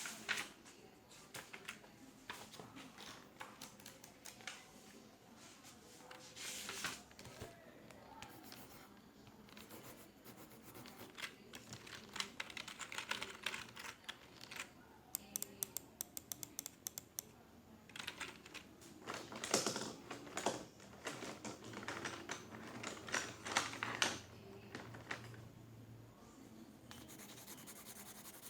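Computer keyboard typing: irregular runs of key clicks, with a quick, even run of taps about halfway through and denser clusters of clicks about two-thirds in.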